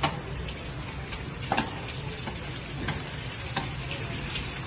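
An egg frying in hot 5W-40 engine oil: a steady sizzle with a few sharp pops and crackles, the loudest right at the start and about a second and a half in.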